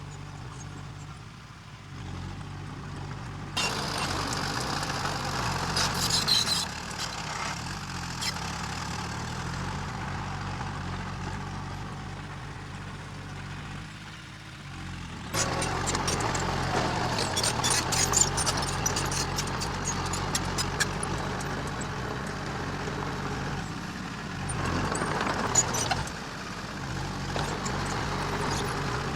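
Diesel engine of heavy earth-moving machinery running steadily. Three times it gets louder, about 3.5 s, 15 s and 25 s in, with a noisy rush full of rattling clicks.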